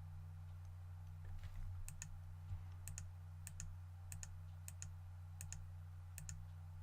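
Faint computer mouse clicks, sharp and spaced irregularly about every half second to a second, some in quick pairs, as faces are picked one by one. A steady low electrical hum runs underneath.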